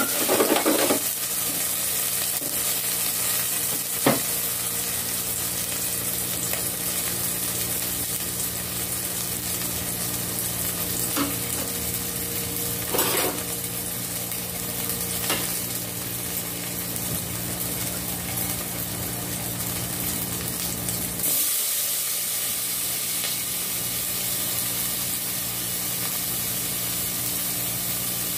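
Sliced onion, tomato and garlic sizzling in oil in a stainless steel pot over a gas burner, with a steady hiss and a few sharp clicks. About three-quarters of the way through, a low hum stops and the sizzle gets brighter.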